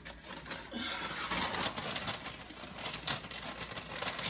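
Paper bag crinkling and rustling as it is handled and laid flat in the microwave, a dense run of small crackles.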